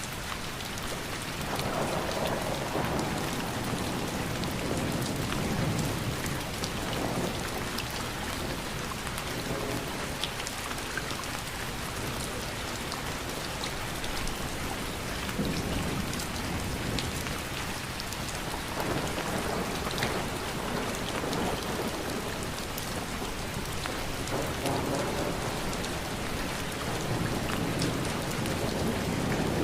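Steady rain falling and pattering, with sharp individual drop hits, and low rumbling swells that come and go every few seconds.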